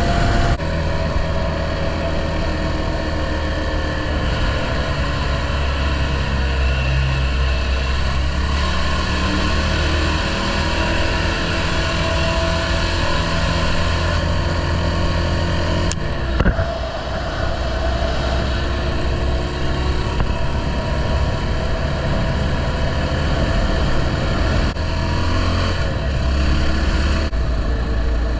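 Honda XR650L's single-cylinder four-stroke engine running under way, its note drifting up and down a little, over heavy wind rumble. A sharp click sounds about halfway through.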